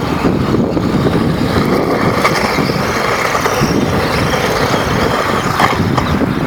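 Small string-trimmer engine driving a toy-sized monster truck, running steadily with a rough, fluttering sound.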